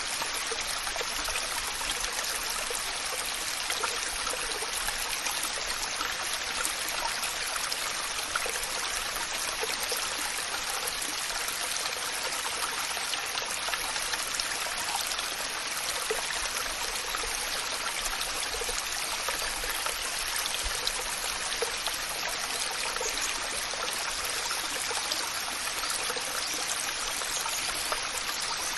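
Waterfall, an even and unchanging rush of falling water.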